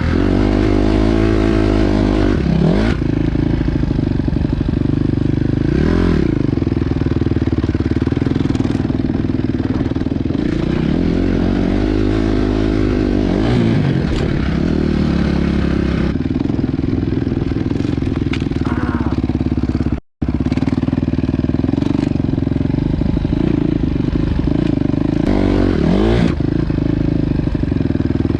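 Honda CRF250 dirt bike's four-stroke single-cylinder engine being ridden, its pitch rising and falling over and over as it is revved up and eased off. The sound breaks off for a moment about twenty seconds in.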